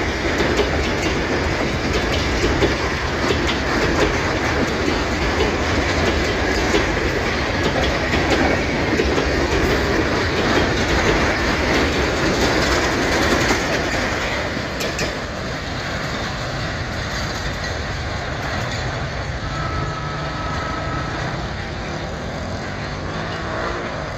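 Freight train of empty grain hopper wagons rolling past, wheels clicking over the rail joints. The noise eases a little after about 14 seconds, and a brief thin squeal sounds near the end.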